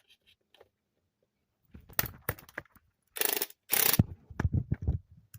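Hand tools working on metal bolts in an engine bay: scattered clicks and knocks, two short rasping scrapes, then a quick run of clicks, typical of a ratchet wrench being worked.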